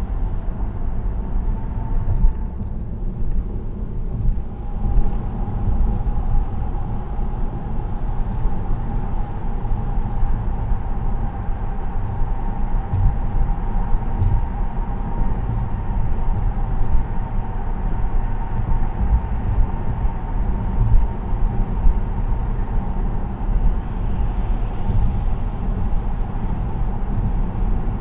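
Car cruising on an expressway: steady low tyre and road rumble with a faint steady whine and scattered light ticks.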